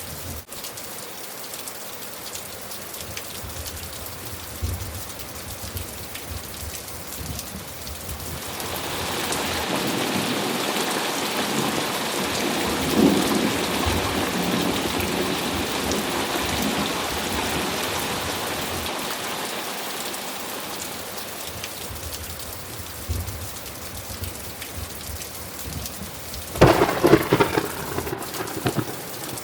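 Steady rain falling, with a long roll of thunder that swells about a third of the way in and fades away over several seconds. Near the end comes a sharper, louder thunderclap.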